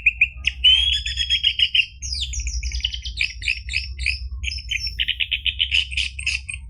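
Orange-headed thrush singing: quick runs of rapidly repeated chattering notes, one phrase after another, breaking off near the end. A steady low hum lies underneath.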